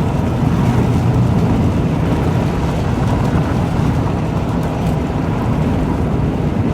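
Steady loud low rumble of strong wind buffeting a moving car and the microphone, mixed with road noise: tornado inflow wind strong enough to pull at the car.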